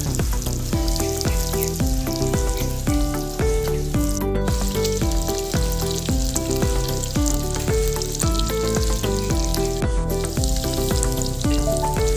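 Pig intestine (chicharong bulaklak) sizzling as it deep-fries in a pan of hot oil, with background music of changing notes over a steady bass beneath it. The sizzle drops out briefly twice, at about four and ten seconds in.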